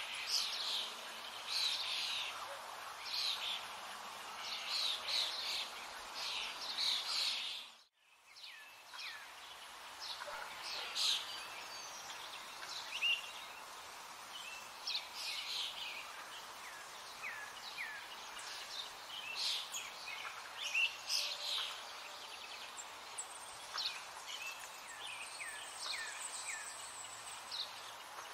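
Birds chirping and calling, a dense run of short high chirps over a light hiss. It fades out briefly about eight seconds in, then a different chorus returns with many short, falling notes.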